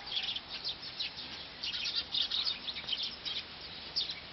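Birds chirping: a busy run of short, high chirps, thickest about two seconds in.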